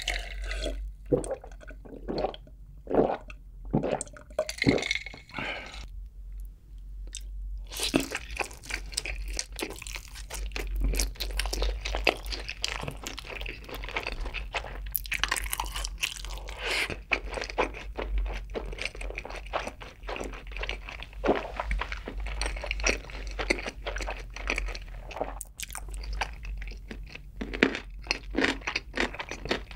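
Close-miked eating sounds: a person chewing and crunching mouthfuls of food in dense, irregular crackles, with a short lull a few seconds in.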